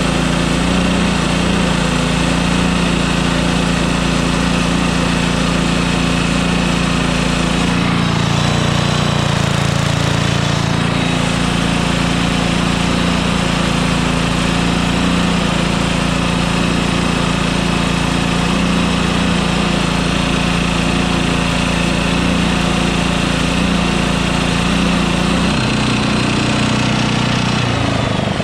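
Engine-driven welder built around a WWII aircraft generator, running steadily with a constant mechanical drone; its note shifts about eight seconds in and again near the end.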